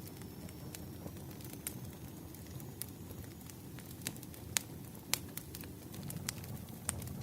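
Wood fire crackling: irregular sharp pops and snaps over a low steady rumble, with a few louder snaps past the middle.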